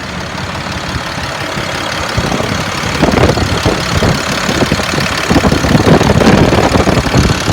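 International DT466 six-cylinder diesel engine idling with a steady diesel clatter. It gets louder and more rattly about three seconds in.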